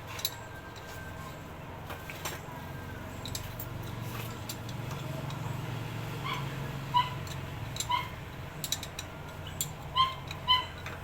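Several short, high-pitched animal calls, like the yelps of a small dog, coming in the second half, over scattered light clicks and a steady low hum.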